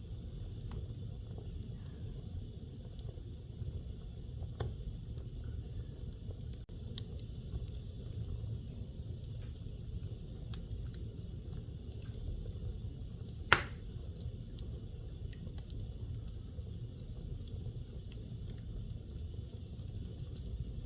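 Wood fire burning in a fireplace: a low steady rumble with scattered small crackles, and one loud pop about two-thirds of the way through.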